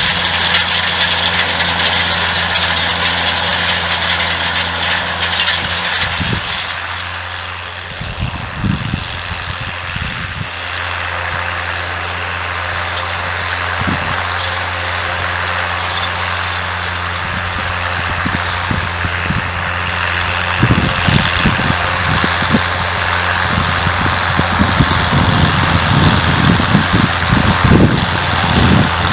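John Deere 6810 tractor's six-cylinder diesel engine running steadily. The sound dips for a few seconds about a quarter of the way in, and irregular low knocks and rumbles run through the second half.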